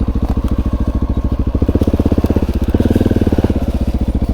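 Honda XR650L's single-cylinder four-stroke engine running with an even, rapid firing pulse. It grows louder for a couple of seconds in the middle, then eases back.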